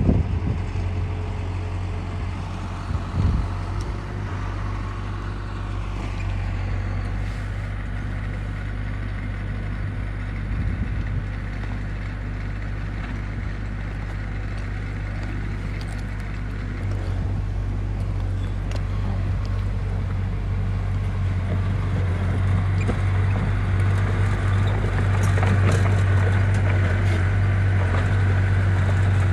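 Diesel engine of heavy construction machinery running steadily, with a deep low hum that grows louder over the second half. A few short knocks stand out above it.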